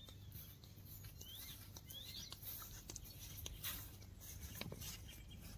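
Faint outdoor ambience: two short rising bird chirps in the first half, over light scattered clicks and rustles from footsteps in sandals on grass.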